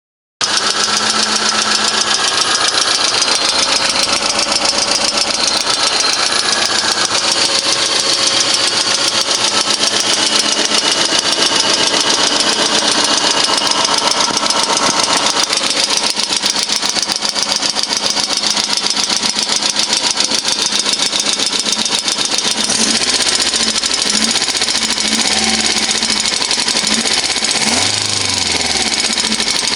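A VAZ 2110-family car's 16-valve four-cylinder engine running with a fast, steady ticking knock from the top of the engine: hydraulic lifters (lash adjusters) knocking, a sign of worn or sticking lifters. The engine speed rises and falls a little in the last several seconds.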